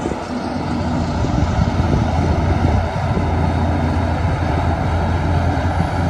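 Heavy diesel engine of earthmoving machinery running, a deep steady rumble that builds over the first second and then holds.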